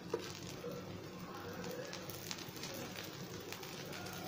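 Dosa batter faintly sizzling and crackling on a hot tawa as oil is drizzled over it, with one light tap just after it begins.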